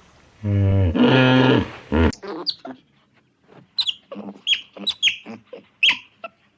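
Animal calls: one loud, low, drawn-out call lasting about a second and a half, followed by a quick run of short, high, downward-sweeping chirps.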